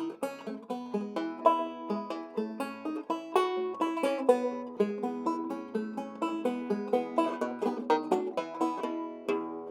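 Circa 1923 Weymann Keystone State guitar banjo played solo: a ragtime piece in the classic style, fingerpicked with a steady alternating bass under a busy melody of bright, quickly decaying plucked notes.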